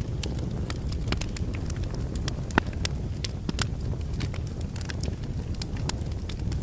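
Logs burning in a fireplace: a steady low rumble of flames with irregular sharp crackles and pops, one louder pop a little past the middle.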